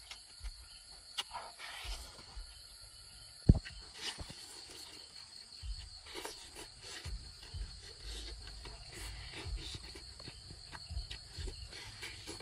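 Close mouth sounds of a man biting and chewing a fried cricket-and-egg omelette eaten by hand, with many small clicks and one sharp knock about three and a half seconds in. A steady high insect trill runs underneath.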